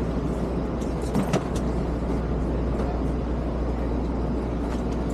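Steady low hum and rumble inside a passenger train car, with a couple of short knocks about a second in.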